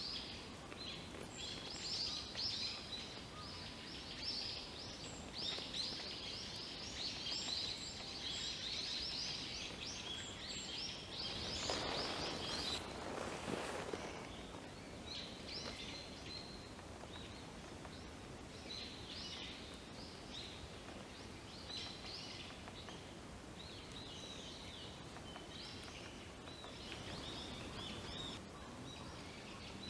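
Small birds giving many short, high chirping calls, thick at first and thinning out later. A rustling noise, the loudest sound, comes about twelve seconds in and lasts about two seconds.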